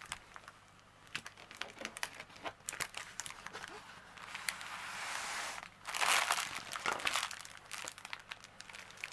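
Plastic packaging and a rolled diamond painting canvas crinkling and rustling as they are handled and put away, in irregular crackles with a longer, louder rustle about five to six seconds in.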